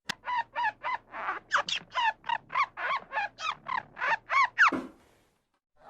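An animal calling over and over: a quick run of about fifteen short, harsh calls, roughly three a second, that stops a little before the end.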